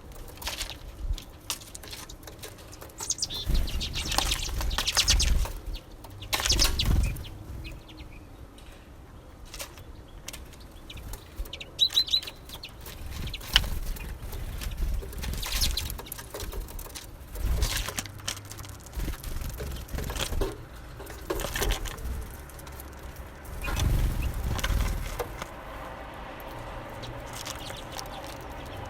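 Small songbirds at a winter seed feeder: several bursts of wing fluttering, scattered clicks and pecking, and a few short high calls.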